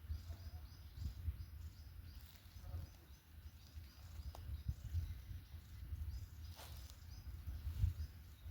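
Small songbirds chirping faintly in a forest, short repeated notes throughout, over a fluctuating low rumble.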